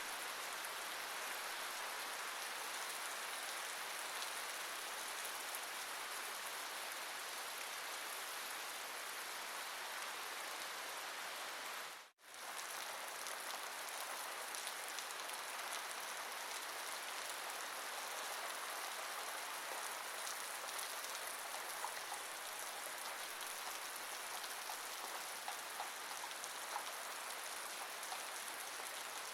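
Steady rain falling, an even hiss with a few separate drops ticking out in the second half. The sound dips briefly to near silence about twelve seconds in, then resumes as before.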